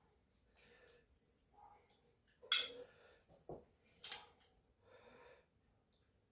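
A few sharp metal clinks from car suspension parts being handled and fitted, the loudest about two and a half seconds in, with soft breathing between them.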